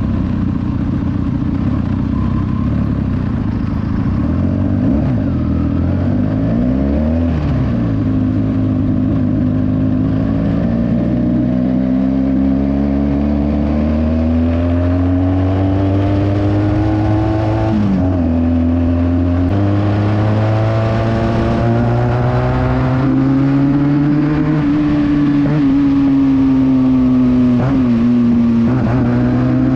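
Benelli 300 motorcycle with a loud exhaust, riding along, its engine note climbing and falling as the throttle opens and closes. The pitch drops sharply a couple of times as the gears change.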